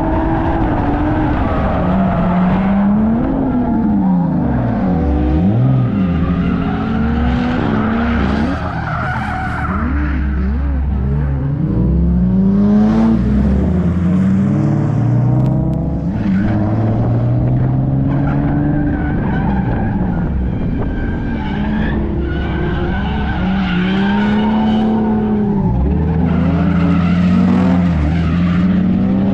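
Drift car engine revving hard, its pitch climbing and dropping again and again, with tyres squealing and skidding through the slides.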